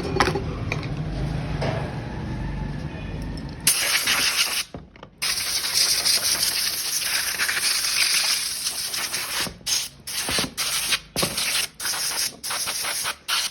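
A low rumble with a few clicks, then a loud pressurised spray hiss that starts a few seconds in. It runs in long bursts with short breaks, and the breaks come more often near the end.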